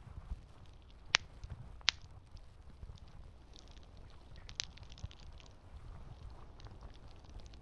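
Campfire burning: a low steady rumble with fainter crackles and a few sharp pops of burning wood, the loudest about a second in, just before two seconds and past the halfway mark.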